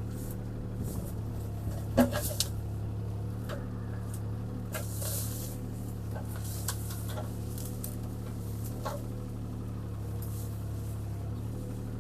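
CAT 303C CR mini excavator's diesel engine running steadily while the machine repositions, with a few scattered sharp knocks and clicks, the loudest about two seconds in, and a short hiss around the middle.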